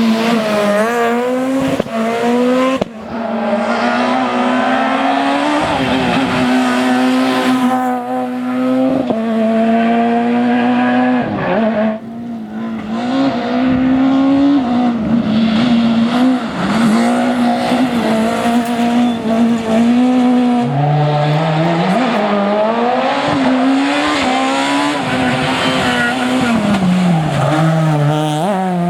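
Super 2000 rally car engine running hard at high revs, its note dropping and climbing again with gear changes and lifts, with tyre squeal from cornering.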